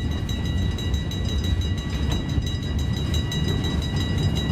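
Freight train rolling by: a steady low rumble with a faint high whine held above it.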